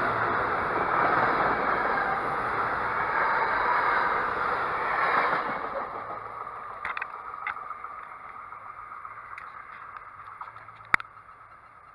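A passing train's steady rumble of wheels on the rails, loud for about five seconds and then fading away as it recedes. A few sharp clicks follow, the loudest near the end.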